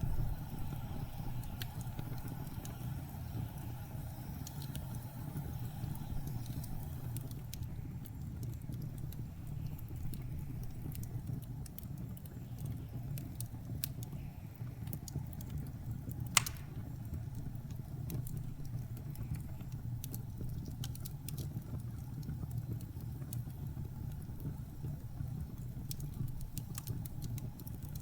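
Crackling wood fire over the steady low rumble of blizzard wind, with scattered small pops and one sharp, louder pop about sixteen seconds in.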